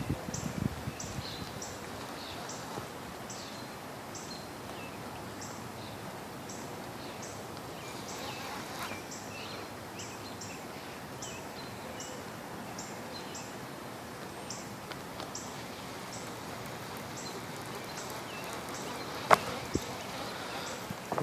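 Steady outdoor background noise at a windy pond, with a short high chirp repeating about twice a second and a single sharp click near the end.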